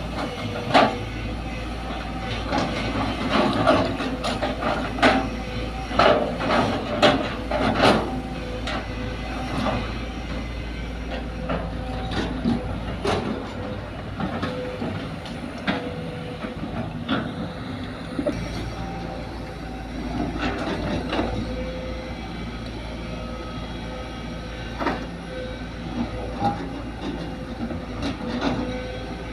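Sumitomo excavator's engine running steadily while loading soil into a dump truck, with a quick run of sharp knocks and clanks in roughly the first eight seconds, then scattered single knocks.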